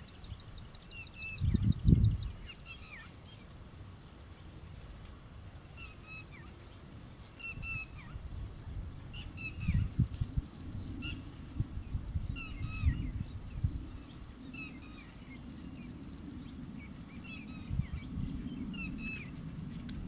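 Small birds chirping: short, high, falling notes repeated about once a second, with a fast ticking trill in the first couple of seconds. A few low rumbling thumps come in, the loudest about two seconds in.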